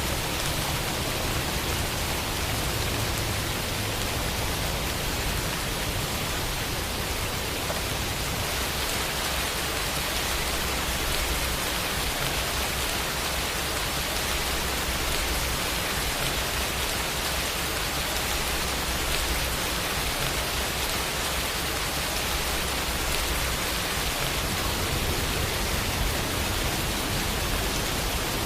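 Steady rain falling, an even dense hiss with no single drops or thunder standing out.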